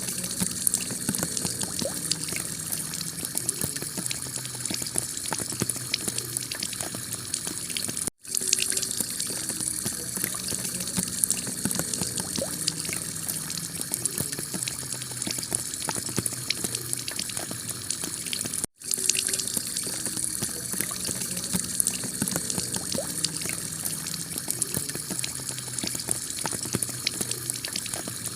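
Heavy rain falling on a clay-tiled roof: a steady, dense patter of drops. It cuts out for a split second twice, about 8 and 19 seconds in.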